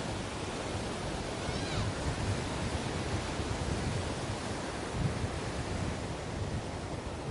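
Ocean surf washing onto a beach: a steady rush of waves with a deep low rumble, swelling and easing slightly.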